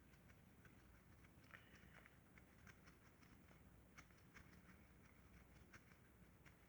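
Near silence with faint, scattered small ticks of bolts being threaded in by hand.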